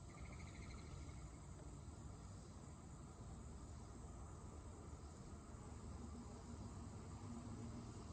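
Insects trilling in one steady, high-pitched, unbroken drone.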